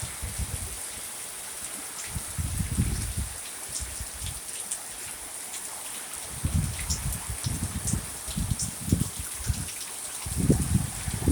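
Steady rain hissing, with scattered drops ticking, during a storm. Gusts of wind buffet the microphone with low rumbles about two seconds in, again from about six to nine seconds, and near the end.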